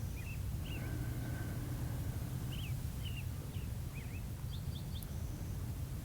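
Small birds chirping: scattered short, quick high calls, some in little clusters, over a steady low background rumble.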